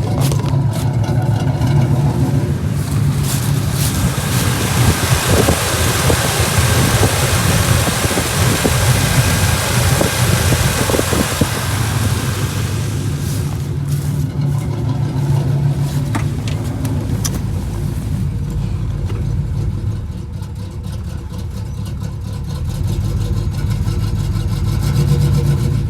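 Cammed 305 small-block Chevy V8 running with an uneven, rough idle; the misfire the owner was chasing is still there. For about ten seconds in the first half, a steady hiss sounds over the engine.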